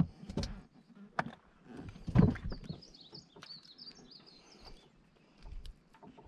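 A songbird singing a quick run of high, warbling chirps from about two and a half seconds in. A few knocks sound over it, the loudest a dull thump about two seconds in.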